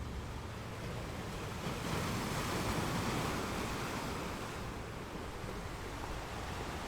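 Ocean surf: a wave breaks and washes in, the rush swelling about two seconds in and easing off again over the next few seconds.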